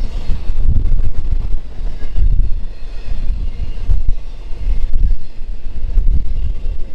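A train passing close by, its low rumble mixed with heavy wind buffeting on the microphone.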